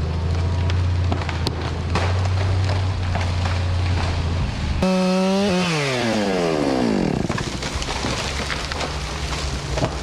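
Chainsaw idling, then blipped to high revs about five seconds in, its pitch sliding back down over a couple of seconds as the throttle is released, then idling again.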